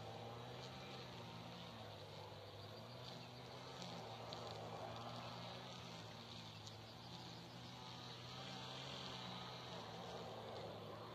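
A car engine idling steadily, with a few faint bird chirps now and then.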